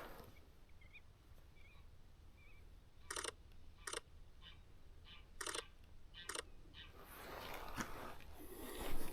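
A camera shutter firing four short bursts, in two pairs, about three and five seconds in. Faint high chirps sound in the first few seconds.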